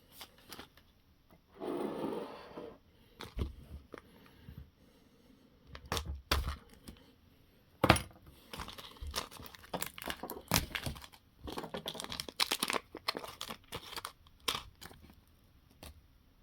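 Small-parts handling at a workbench: a plastic hardware bag crinkling and being torn open, with scattered sharp clicks and taps of small screws and parts, the loudest knock about eight seconds in.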